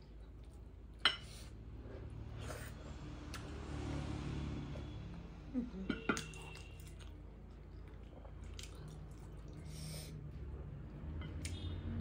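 Close-miked mouth sounds of someone eating dhido by hand: chewing and soft wet smacking, with sharp clicks about a second in and again around six seconds.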